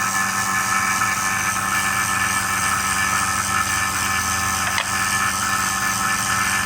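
Electric refrigeration vacuum pump running steadily, a hum with hiss over it, still pumping after the manifold's low-side valve has been closed, just before it is switched off.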